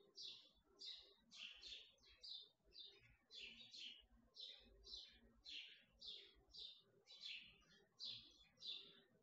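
A small bird chirping over and over, faint, about two short falling chirps a second.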